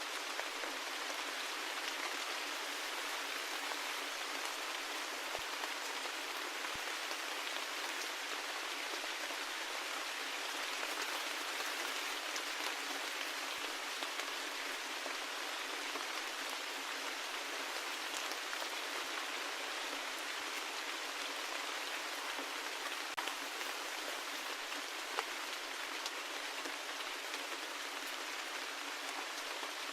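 Steady rain: an even patter of drops with occasional faint individual drop ticks.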